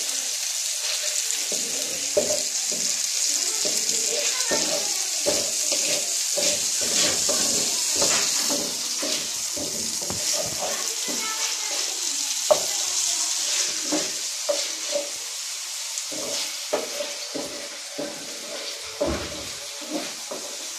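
Chicken pieces frying in hot oil in a pan, a steady sizzle, with a spatula scraping and knocking against the pan as they are stirred.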